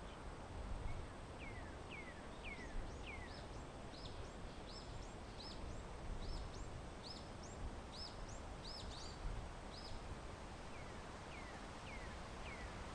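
A small songbird calling: a few quick falling notes, then a run of short high chirps, then falling notes again, over a steady low background rumble.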